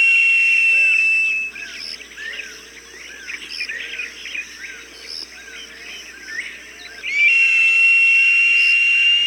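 Long, steady high-pitched falcon cry, held for about a second and a half at the start and again from about seven seconds in. Between the cries, small birds chirp in quick short calls.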